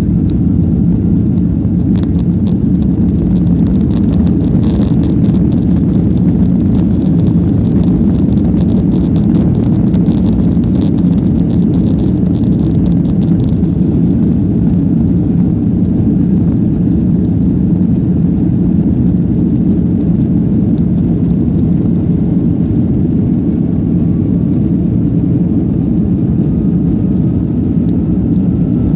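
Cabin noise of a Boeing 757-200 on takeoff, with its Rolls-Royce RB211 jet engines making a loud, steady low rumble. A fast rattling of the airframe and cabin fittings runs through the first dozen seconds and stops about 13 seconds in. A faint rising whine comes in near the end.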